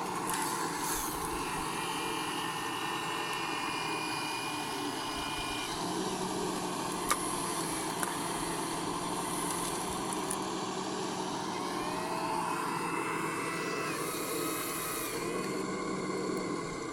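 Electric motors and gearing of radio-controlled scale construction models whining as they run, the pitch holding steady for a few seconds, then rising and falling, with two sharp clicks in the middle.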